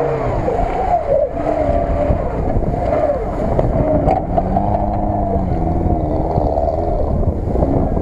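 Lada Niva's engine revving up and down repeatedly as it pulls through deep mud and climbs out of a pit, with wind buffeting the microphone.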